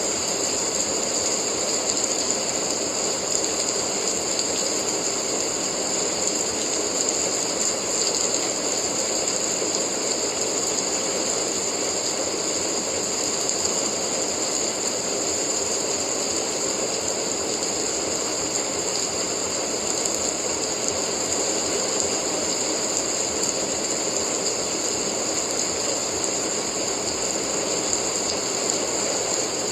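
Steady rain falling, a continuous even hiss with a dense fine patter and no breaks.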